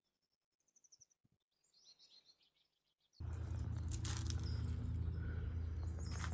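Faint birds chirping in short high calls, then about three seconds in a loud steady low rumble with a hiss above it cuts in suddenly and drowns them out.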